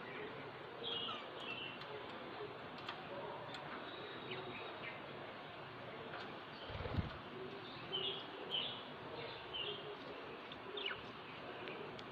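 Budgerigars chirping in short, scattered calls, with one dull low thump a little past halfway through.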